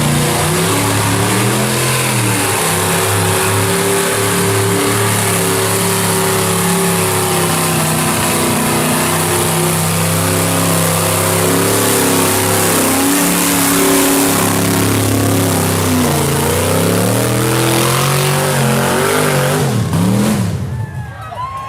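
A mud truck's engine revving hard and held at high revs. It dips briefly and climbs again a couple of times, then drops off near the end.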